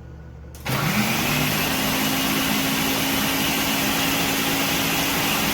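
Electric countertop blender switched on less than a second in: the motor spins up with a short rising hum, then runs steadily and loudly at speed.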